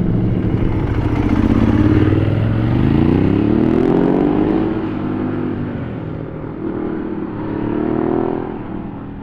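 Superbike engine accelerating hard: its pitch climbs for a few seconds, drops, then climbs again near the end as the sound fades away.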